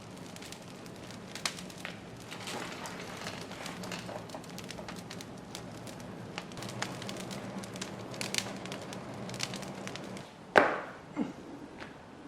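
Wood fire crackling in the firebox of a traditional wood-fired kiln, with many scattered sharp pops. About ten and a half seconds in comes one loud knock, then a smaller one.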